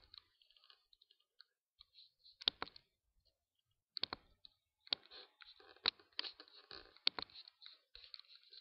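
Irregular sharp clicks and taps, roughly one a second in the second half, with faint rustling and crackling between them.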